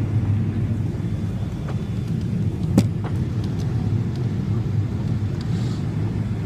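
Steady low rumble of an airliner heard from inside the passenger cabin, with a single sharp click about three seconds in.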